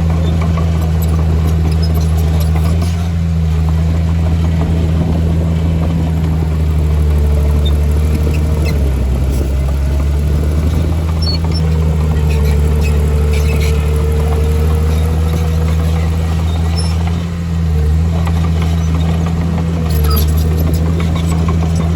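Heavy earthmoving machine's diesel engine running steadily under work, with a faint higher whine that comes and goes in the middle and brief dips in the engine note twice.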